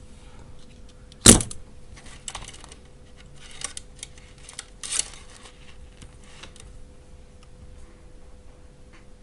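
Small hard clicks and clatter from handling lithium-ion cells and nickel strip on a workbench: one sharp, loud click about a second in, then a run of lighter clicks and rattles for a few seconds, over a faint steady hum.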